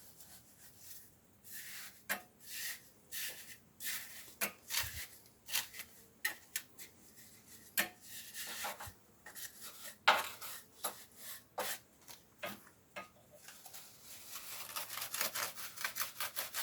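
A trowel scraping and knocking through gritty, unsifted sand-and-cement mortar, in uneven strokes. A sharp knock about ten seconds in is the loudest sound. Toward the end the scrapes come quicker, about four a second.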